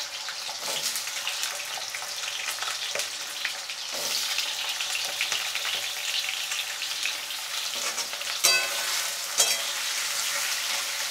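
Potato slices frying in hot mustard oil in a metal kadhai: a steady sizzle with fine crackling. Past the middle a steel spatula stirs them, with two sharp metallic clinks about a second apart against the pan.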